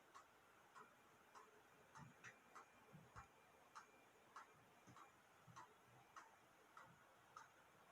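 Faint, regular ticking, a little under two ticks a second, against near silence.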